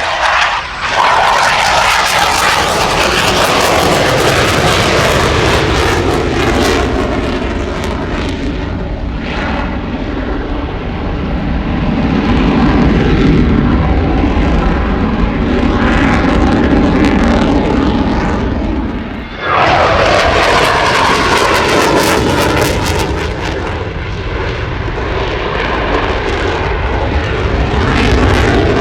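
Loud engine noise from a fixed-wing aircraft in flight, swelling and easing. It breaks off abruptly about 19 seconds in, then comes back just as loud.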